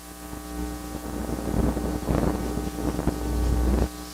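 Rumbling, scraping noise in uneven surges as a sewer inspection camera's push cable is fed along the sewer line, growing louder and stopping abruptly near the end. A steady electrical hum from the camera equipment runs underneath.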